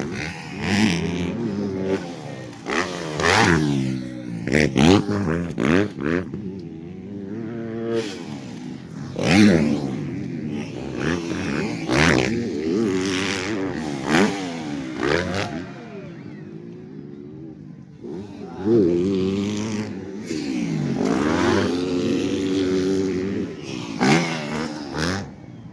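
Motocross bikes racing past: their engines rev up and down over and over, with the pitch rising and falling as riders throttle through the track, and several loud peaks as bikes pass close.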